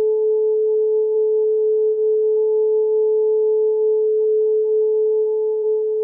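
Steady electronic 432 Hz tone held without change, with a fainter overtone an octave higher.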